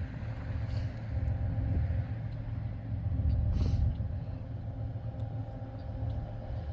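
Steady low rumble of a diesel locomotive engine running as a train moves slowly, with a brief hiss about three and a half seconds in.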